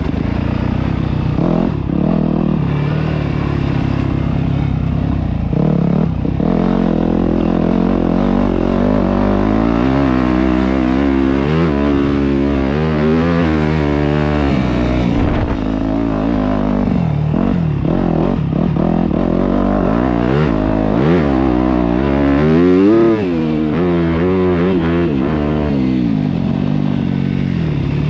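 Yamaha YZ250F dirt bike's four-stroke single-cylinder engine riding hard on a trail, its pitch climbing and dropping again and again as the throttle is opened and closed through the gears. The loudest run-up comes a little past three-quarters of the way through.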